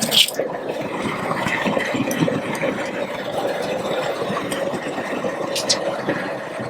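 High-pressure propane burner under a crawfish boil pot, roaring steadily at full flame to bring the water back to a rolling boil. There are short sharp clatters at the start and one about five and a half seconds in.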